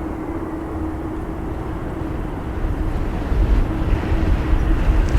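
Aircraft engine noise: a steady hum over a rumbling din, with the low rumble growing louder about two and a half seconds in.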